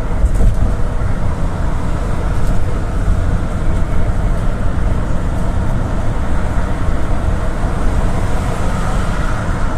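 GAZ-A68R52 GAZelle City minibus on the move, heard from inside the cabin: steady low rumble of engine and road noise.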